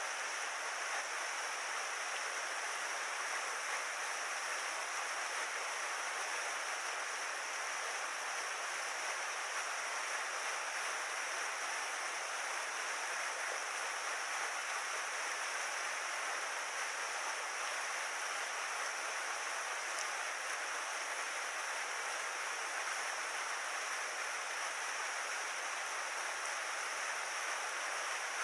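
Mountain stream water rushing steadily, an even noise without breaks.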